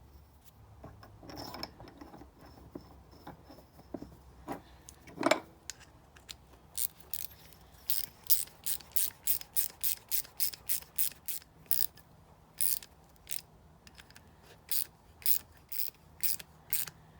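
Small ratchet wrench clicking over and over, about two clicks a second, as it runs a brake caliper pin bolt into its threads. A few scattered knocks from handling the tool come first, the loudest about five seconds in.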